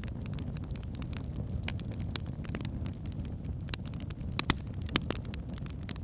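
Wood fire in a fireplace burning steadily with a low rumble and scattered sharp crackles and pops, the loudest two about four and a half and five seconds in.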